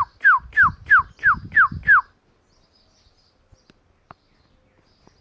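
A run of about eight loud, clear whistled notes in the style of a northern cardinal's song. Each note slides downward, about three a second, and the run stops about two seconds in. Faint bird chirps follow.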